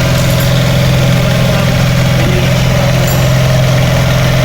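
Bajaj CT 100 motorcycle's single-cylinder four-stroke engine idling at a steady pitch.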